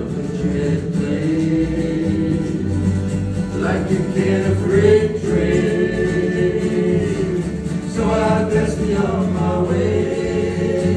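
Live folk song: several voices holding long notes in close harmony over strummed acoustic guitar accompaniment.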